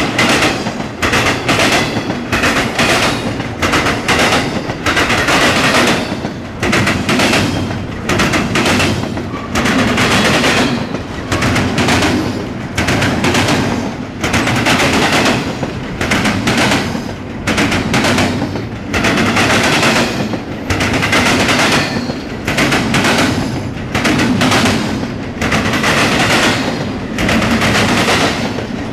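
Norfolk Southern intermodal freight train rolling past, its steel wheels clattering loudly over the track in rapid clusters of sharp knocks, one wheel set after another.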